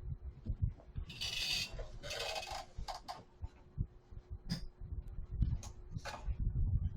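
Handling noise near the microphone: irregular low bumps and two short rustling bursts about a second and two seconds in, with a few clicks, over a faint steady electrical hum.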